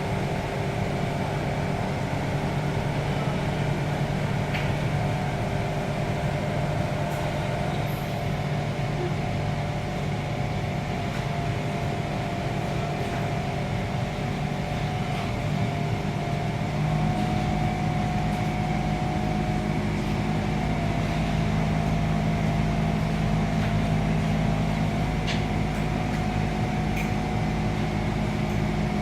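Steady hum inside a Kawasaki C151 MRT train, with several steady tones over a low drone; about 17 seconds in, a deeper hum comes in and the sound grows a little louder.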